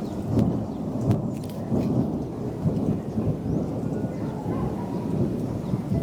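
Heavy rain shower pouring steadily, a dense low rush with scattered sharp drop clicks.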